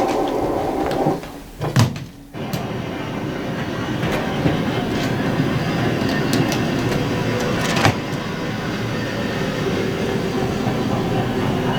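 Train sound effect: a moving railway carriage's steady rumble and rattle with scattered clicks. It drops out for about a second early on, then comes back and runs on steadily, with one sharper knock about two thirds of the way through.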